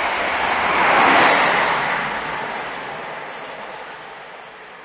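East Midlands Trains diesel express train passing through at speed and running away. Its noise peaks as the rear end goes by about a second in, with a high engine whine that drops in pitch, then fades steadily into the distance.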